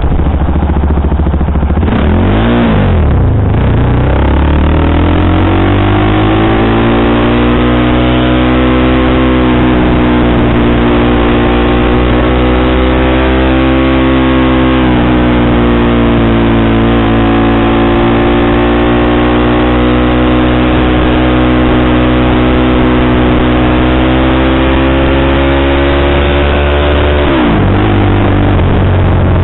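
KTM sportbike engine, running a Powertronic ECU map, pulling on the road. The revs dip and climb in the first few seconds, then settle into a long, nearly steady cruise with the note wavering slightly. Near the end the revs drop off sharply.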